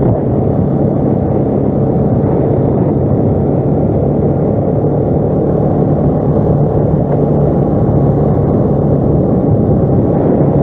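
ATV engine running at a steady pace while riding, a constant low drone with road noise and no change in speed.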